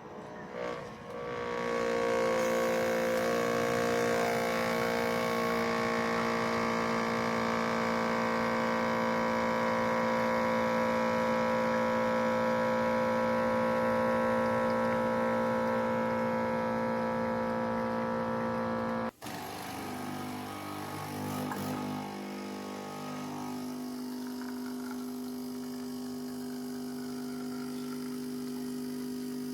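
Coffee machine pump humming steadily while brewing. About two-thirds of the way through it cuts off abruptly, and a lower, different steady hum takes over a few seconds later, as from a second machine.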